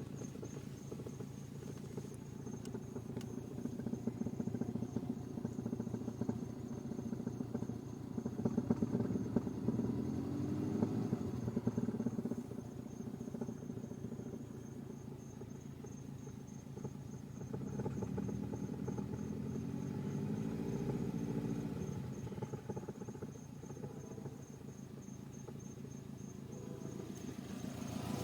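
Subaru Legacy GT engine at idle with a rapid, steady thumping, and a faint high whine over it. The revs are raised twice, to about 1,200 rpm, and then drop back. The thumping is the fault noise the owner is chasing.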